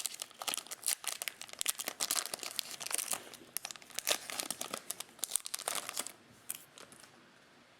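Foil trading-card pack wrappers crinkling and tearing, with the rustle and flick of cards being handled, for about six seconds before it goes quieter.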